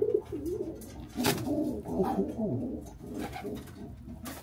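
Several domestic pigeons cooing at once, their low warbling coos overlapping. Two short sharp clicks, about a second in and near the end.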